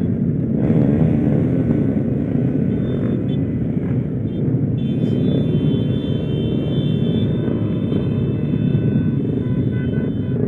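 Small four-stroke underbone motorcycle with a freshly rebuilt engine being ridden: a steady low rumble of engine and rushing air, with a faint high whine joining about halfway through.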